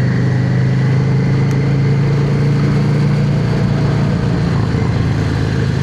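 Yamaha XVS650 air-cooled V-twin motorcycle engine running at a steady pitch while cruising, under an even rush of noise.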